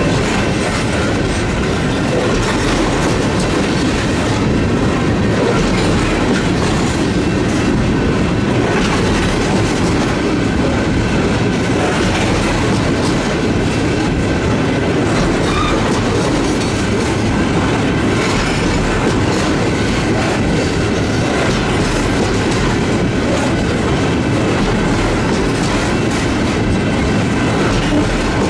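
Empty ethanol tank cars of a freight train rolling past close by: a steady, loud rumble of steel wheels on rail with repeated clacks as the wheel sets cross the rail joints.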